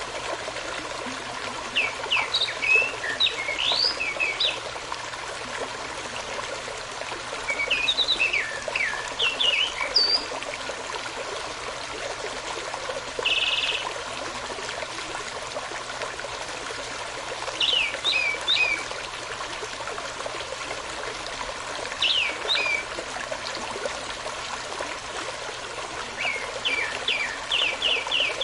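Steady rush of a small stream. Over it a songbird sings short phrases of quick, high, downward-sweeping notes every four to five seconds, with one brief buzzy note near the middle.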